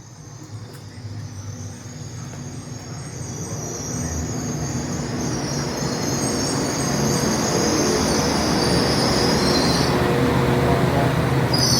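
Passenger train pulling into the station, getting steadily louder as it comes in, with high-pitched wheel and brake squeal that breaks off briefly near the end and then returns.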